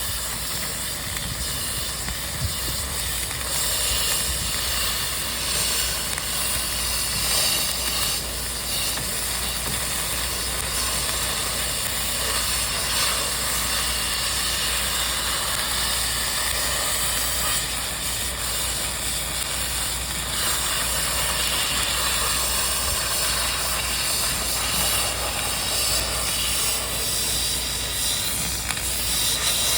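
Dual-shield (gas-shielded) flux-cored wire welding arc burning continuously on a vertical joint: a steady, unbroken hiss.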